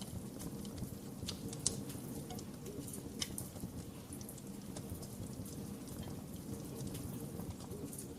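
Wood fire crackling in a fireplace: a steady low rumble of burning with scattered sharp pops and snaps, the sharpest about one and a half seconds in and again about three seconds in.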